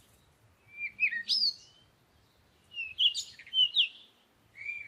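Small bird chirping in three short bursts of quick, high notes that slide up and down in pitch, with brief pauses between them.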